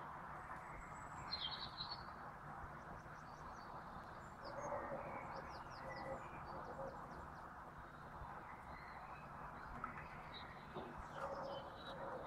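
Small birds chirping now and then over a steady background hiss, with a quick run of chirps about five seconds in.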